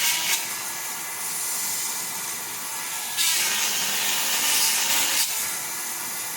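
Granberg 12-volt chainsaw sharpener: its small electric motor whines steadily. Its grinding bit rasps against a chain cutter briefly at the start and again for about two seconds from about three seconds in.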